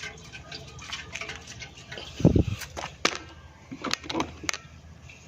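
Knocks and clunks from a small engine's fuel tank being handled while it is rinsed out with gasoline. The loudest is a low thump a little past two seconds in, followed by a few lighter knocks about a second and two seconds later.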